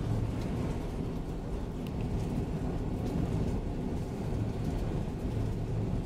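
Airbus A330-200 cabin noise after touchdown: a steady low rumble of engines, airflow and rolling wheels, with a few faint ticks and rattles.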